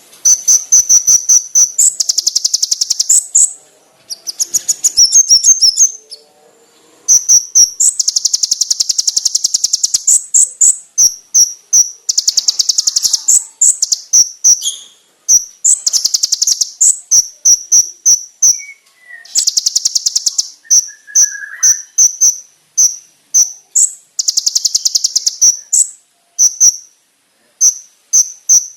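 Konin (kolibri ninja sunbird) singing a loud, very high-pitched song of rapid buzzy trills lasting a second or two, alternating with quick runs of sharp, piercing repeated notes.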